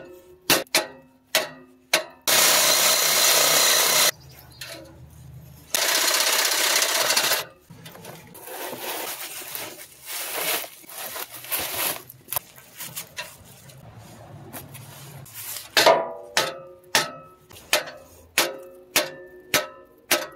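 Metal-on-metal work on a van's exhaust: a run of sharp ringing knocks, two long hisses of aerosol penetrating spray a couple of seconds apart, some scraping, then a faster run of ringing knocks near the end.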